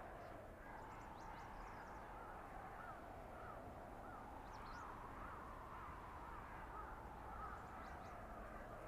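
Blizzard wind blowing steadily through a winter forest, with a wavering whistle in it and a low rumble underneath. In the middle a bird calls in a quick series of short rising-and-falling notes, about two a second, with a few faint high chirps.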